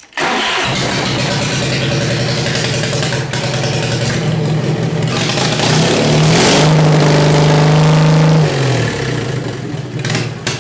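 Worn-out Kohler KT17 twin-cylinder engine of a Simplicity 7117 garden tractor, which the owner says has blow-by, starting abruptly and running. It revs up about six seconds in, then winds down and dies away near the end.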